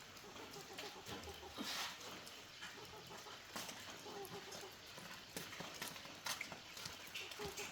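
Faint animal calls with scattered light clicks and taps.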